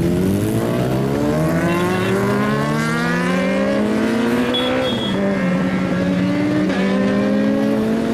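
A performance vehicle's engine accelerating: its pitch climbs steadily for about five seconds, drops suddenly at a gear change, then holds and creeps up again as it pulls in the next gear.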